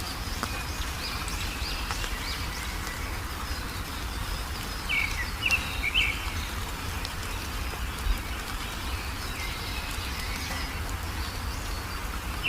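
Small songbirds chirping in short, high notes, with a quick cluster of three or four chirps about five seconds in and fainter chirps scattered throughout, over a steady background hiss and low hum.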